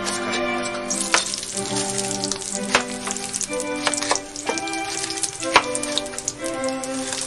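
Eggplant pieces sizzling as they fry in hot oil in a small pan, the sizzle starting about a second in. Scattered knife strokes on a cutting board, with string music underneath.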